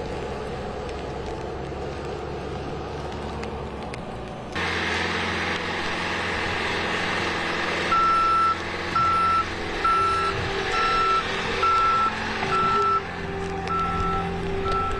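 A vehicle's reversing alarm beeping in a steady single tone about once a second, starting about eight seconds in, over an engine running. The background turns louder and noisier suddenly about four and a half seconds in.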